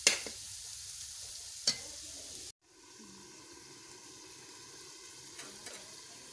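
Chicken and onions sizzling in hot oil in a karahi, with a spatula clicking against the pan twice as they are stirred. About two and a half seconds in, the sound cuts off abruptly and gives way to a fainter steady hiss with a few small ticks.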